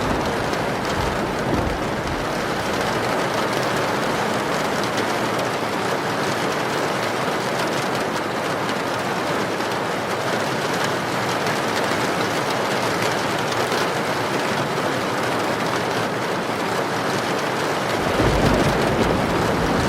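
Steady, heavy rain pouring down, an even hiss. A deep rumble of thunder sits under it in the first second or so and comes back near the end.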